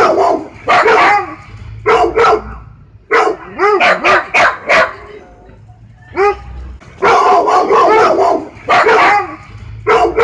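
A dog barking loudly in quick bursts of two to four barks with short pauses between them; the same run of barks repeats about eight seconds later, a looped recording.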